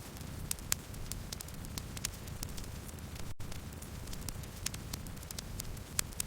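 Campfire burning: a steady low rumble with constant small crackles and a few sharper pops, the loudest about half a second in and near the end. The sound drops out for an instant about three seconds in.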